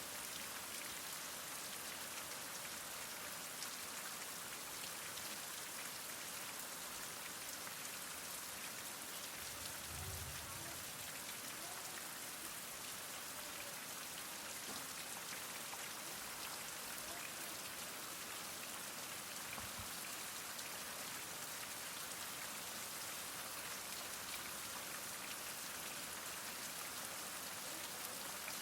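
Heavy rain falling steadily, an even hiss of drops without thunder.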